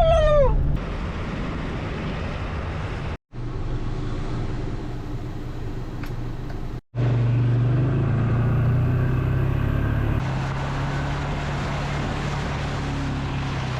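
Steady engine drone and road noise of a vehicle on the move, broken by two brief silent gaps about three and seven seconds in.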